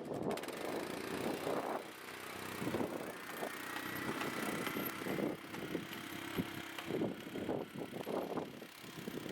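Four-wheeler (ATV) engine running, its level rising and falling unevenly.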